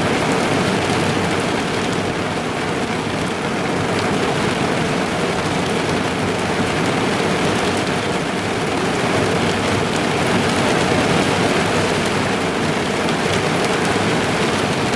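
Heavy rain drumming steadily on a car's roof and windows, heard from inside the cabin as a dense, even hiss.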